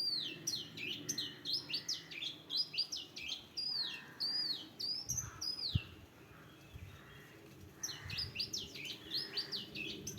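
A bird chirping in quick runs of short, high, downward-sweeping notes, several a second. The chirping stops for a couple of seconds about halfway through, then starts again.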